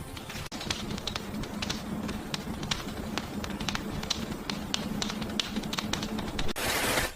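A quick, irregular series of light clicks or taps over a low steady hum, ending in a short burst of hiss.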